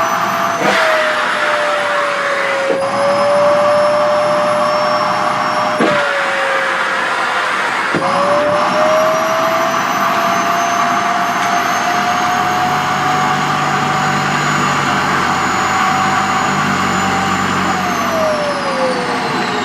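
Sharp EC-KP7F-A canister vacuum cleaner running with a steady motor whine and a rush of air, its pitch dipping briefly a few times in the first several seconds. The pitch then creeps up slowly and falls away near the end.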